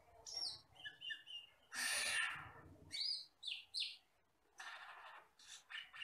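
Camperling (cucak keling) singing a varied string of short whistled notes and sweeping calls. There is a harsh, raspy burst about two seconds in and a brief pause just past the middle, then more sharp notes.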